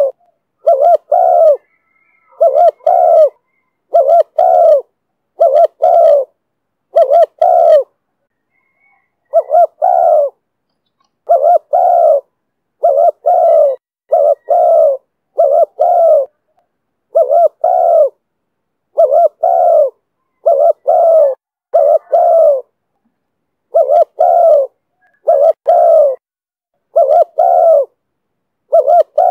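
Spotted dove cooing over and over in the call style known in Vietnamese as 'thổ thúc bổi': loud, low coos in quick pairs about every second and a half, with a short break about a third of the way in.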